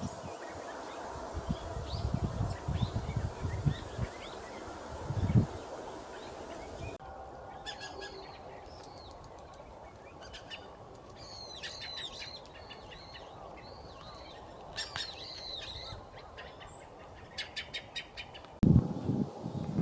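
Small birds chirping and calling: many short, high chirps and quick downward-sweeping calls, with a rapid run of repeated notes near the end. For the first few seconds the chirps are faint under a low outdoor rumble with a few low thumps, and the sound changes abruptly to the clearer birdsong about a third of the way in.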